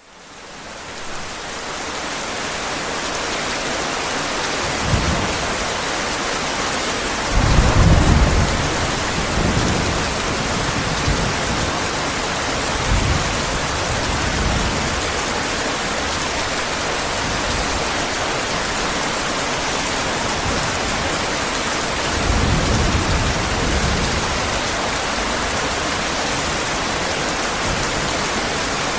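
Heavy rain falling steadily, fading in over the first couple of seconds, with rolls of thunder. The loudest comes about eight seconds in and another about twenty-two seconds in.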